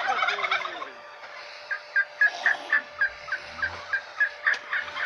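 A bird calling: a loud jumble of cries in the first second, then from about two seconds in a quick run of short, high notes, about four a second.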